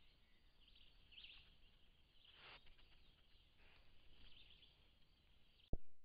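Faint, scattered high chirps and short calls of wild birds, heard through a trail camera's small microphone. Near the end comes a single sharp click and then a moment of dead silence as the recording cuts off.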